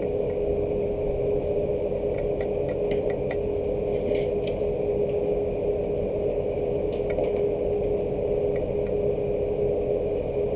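Steady rain under a constant mechanical hum holding one steady tone, with a few light ticks of drops scattered through, most of them between about two and five seconds in.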